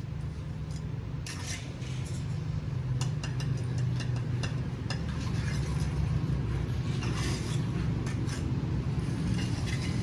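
A moving vehicle's steady low rumble, with loose parts rattling and clicking over it.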